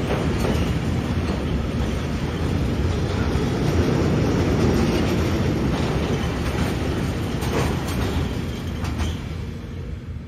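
A train passing close by: a steady rumble of wheels on rails, with a few sharp clacks near the end, dying away over the last couple of seconds.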